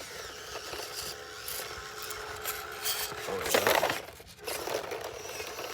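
Small 1/18-scale RC crawler truck working over rock: a faint steady electric motor whine with scraping and rubbing of tyres and body on stone, and one louder scrape about three and a half seconds in.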